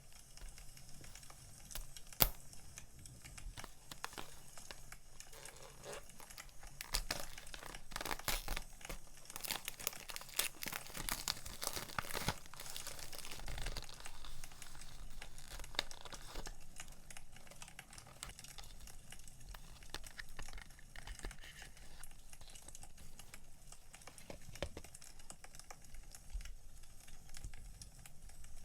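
Crinkling and tearing of paper and plastic packaging as stationery and sticker products are unwrapped and handled, densest in the middle. Underneath are the small, sharp crackles of a wood fire burning.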